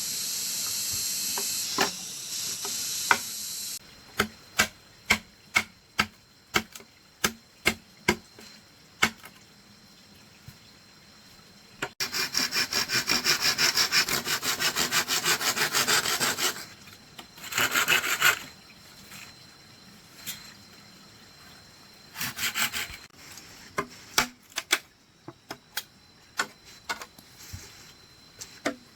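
Hand saw cutting bamboo: several seconds of fast rasping back-and-forth strokes, with a shorter burst after, between scattered sharp wooden taps and knocks about every half second. It opens with a loud high hiss that cuts off suddenly after about four seconds.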